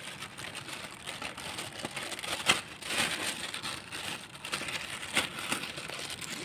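Crinkling and rustling of a plastic polythene wrapper being handled, with scattered light clicks and knocks, the strongest about two and a half, three and five seconds in.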